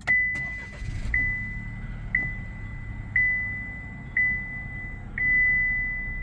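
2024 Chevrolet Trax's 1.2-litre turbocharged three-cylinder engine started by push button: a click, a brief crank, then it catches and settles into a low idle. Over it a dashboard warning chime dings about once a second, six times, the last ding held longer.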